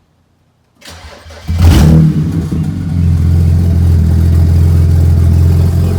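BMW 335i's N54 twin-turbo straight-six, running with no exhaust past its catless downpipes, cranking over about a second in, catching with a loud flare of revs and settling into a loud, steady, raspy idle.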